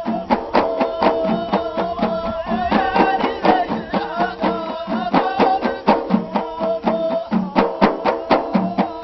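Ahidous folk music: a group singing over bendir frame drums struck in a fast, steady beat of several strikes a second.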